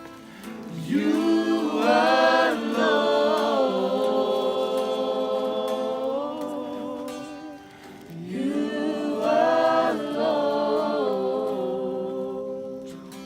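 Voices singing a slow gospel worship song: two long phrases with drawn-out held notes.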